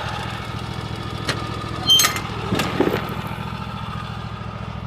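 A farm tractor's engine runs steadily at low speed, with a couple of short sharp knocks about one and two seconds in.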